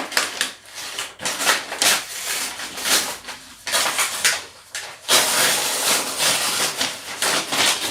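Cardboard box and packing tape being handled and pulled open: a run of rustling, scraping bursts, with a longer stretch from about five seconds in.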